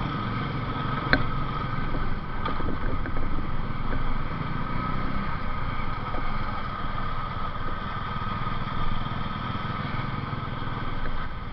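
Motorcycle engine running steadily while riding, with a brief click about a second in.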